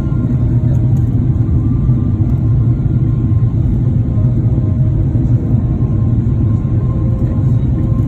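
Steady low rumble of a Boeing 777 airliner in cruise flight, engine and airflow noise heard inside the cabin, even throughout with a faint steady hum above it.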